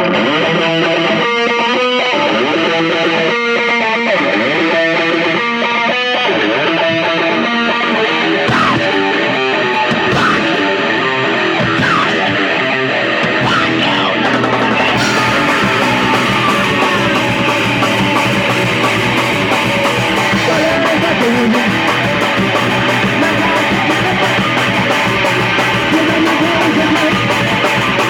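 Punk rock music with electric guitar: it opens with rhythmic picked guitar notes, and about halfway through the full band comes in with drums and a dense distorted wall of sound.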